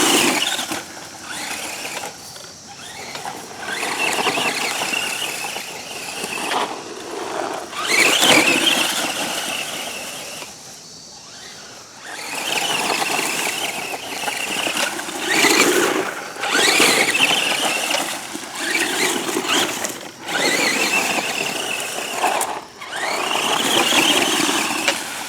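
Redcat Volcano EPX RC truck's brushed electric motor and gears whining, the pitch rising and falling with bursts of throttle, in several runs with short lulls between. The truck is powered by a 2S LiPo battery.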